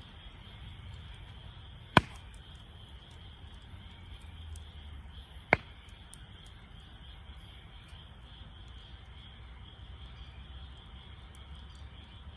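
Campfire wood burning, with two sharp loud pops from the burning wood, about two seconds in and again about three and a half seconds later, over a steady high chirring in the background.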